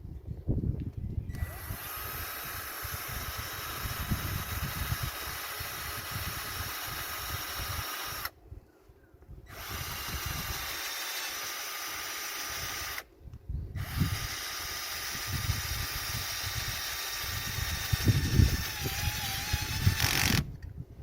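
Electric power tool running in three long stretches, with two short stops in between and a sudden stop near the end.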